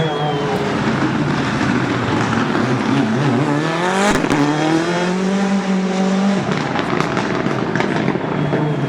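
Rally car engine revving hard, its note climbing to a sharp bang about four seconds in, held high, then dropping off near six and a half seconds, with some tyre squeal.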